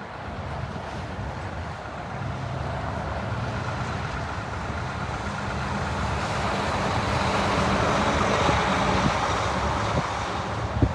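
Jet airliner passing, its engine noise building steadily to a peak about eight seconds in, then easing a little.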